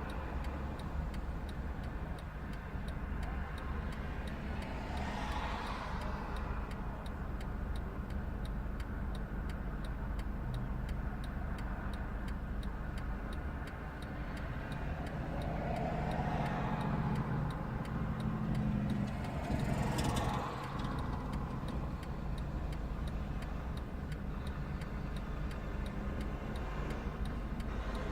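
Road traffic passing by, several vehicles swelling and fading over a steady low engine rumble.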